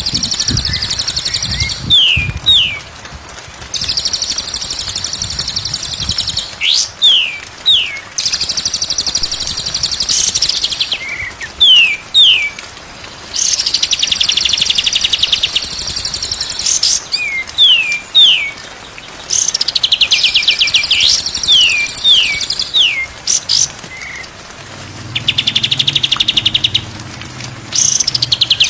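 Songbird singing a repeating cycle: long, high, buzzy trills of about two seconds each alternate with pairs of quick down-slurred whistles, over and over. A faint low hum comes in near the end.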